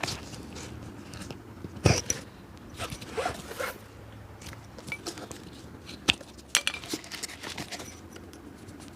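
A cobbler's hands and tools working on a shoe: scattered scrapes, crackles and clicks, with a sharp knock about two seconds in and a few more sharp clicks around six to seven seconds.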